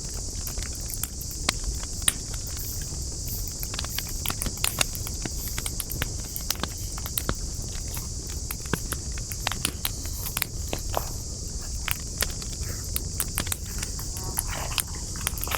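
Campfire wood burning with irregular sharp crackles and pops, several a second, over a low rumble of flame and a steady high-pitched hiss.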